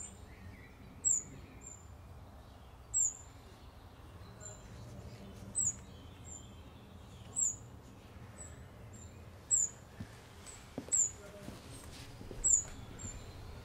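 A small bird chirping outdoors: short, high, slightly falling chirps, each followed by a fainter one, repeated every second or two over a low steady background hum.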